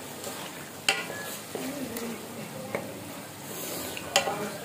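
Chicken karahi with tomatoes sizzling in a metal pan while a wooden spatula stirs and scrapes through it. Three sharp knocks of the spatula on the pan: about a second in, near the middle, and near the end.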